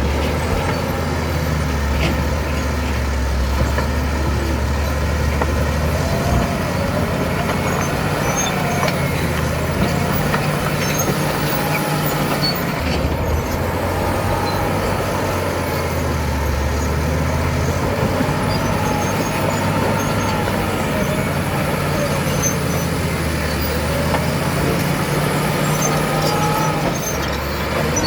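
Caterpillar D7 bulldozer's diesel engine running steadily, its low note shifting in pitch several times.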